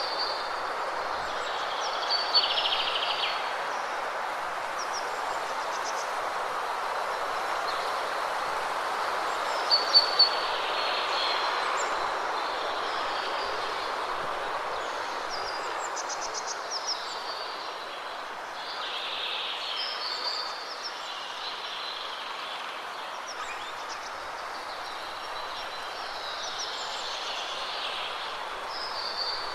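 Waterfall rushing steadily, with birds chirping over it in short calls every few seconds; the clearest calls come about two seconds and ten seconds in.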